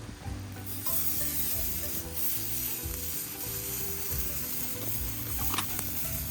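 Wood fire burning in a fire pit, a steady hiss with light crackling and one sharper pop about five and a half seconds in, over low wind buffeting on the microphone.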